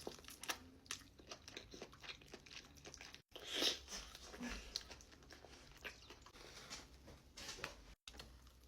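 Close-up eating sounds: crunchy bites and chewing of fried food in short, separate crunches. Two brief dropouts to silence, about a third of the way in and near the end.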